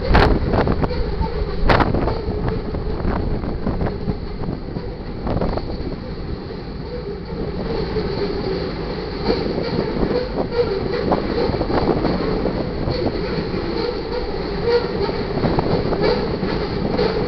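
Freight cars of a passing manifest train rolling by: a steady rumble of steel wheels on rail, with scattered clicks and knocks that are sharpest in the first two seconds.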